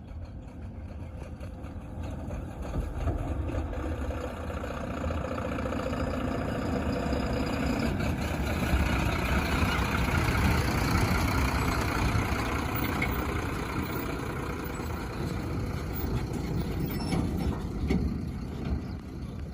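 Heavy diesel engine running, growing louder over the first half and easing off a little near the end.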